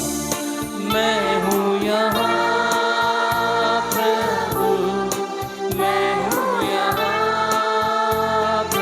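A choir singing a Christian hymn in held notes over instrumental accompaniment.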